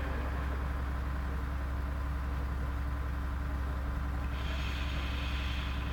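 Steady low electrical hum with background hiss from the recording's sound system, heard in a gap in the Quran recitation.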